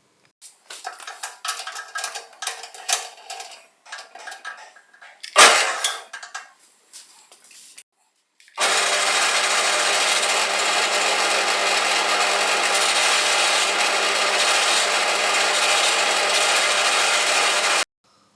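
A power tool's electric motor running at a steady high speed for about nine seconds, with a constant hum, starting abruptly and cutting off suddenly. Before it come a few seconds of irregular clicking and rattling, with one sharp knock about five seconds in.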